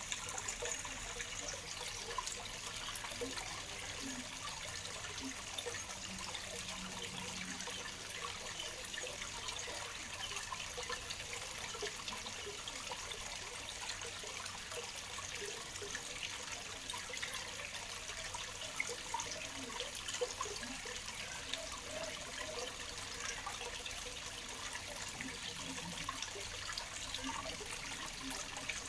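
Waterfall: a steady rush of falling water with fine splashing and spatter.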